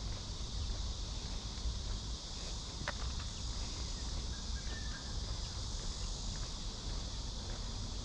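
Summer cicadas shrilling in a steady, high-pitched chorus, over a low rumble of wind on the microphone. A single sharp click about three seconds in.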